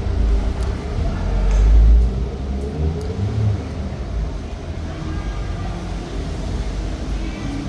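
City-street traffic: a motor vehicle rumbling past, loudest about two seconds in, over steady street noise.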